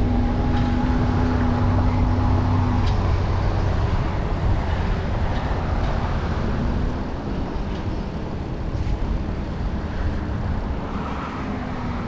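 Wind rushing over the microphone while riding, with road traffic passing. A passing vehicle's steady hum fades out about three seconds in.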